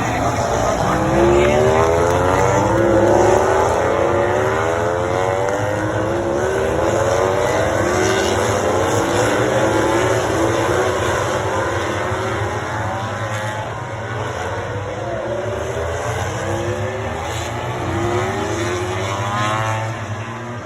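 Racing motorcycles accelerating past one after another, each engine rising in pitch as it pulls through the gears, the engines overlapping as the pack goes by, loudest in the first few seconds and thinning out near the end.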